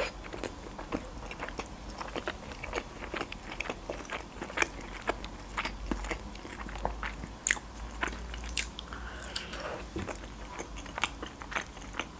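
Close-miked chewing of Georgian khinkali dumplings with sauce: irregular mouth clicks and smacks as the dough is bitten and chewed.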